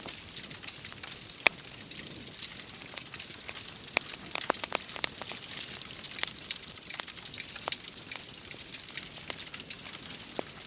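Wood fire crackling with irregular sharp pops over a steady hiss of rain, one pop standing out about a second and a half in.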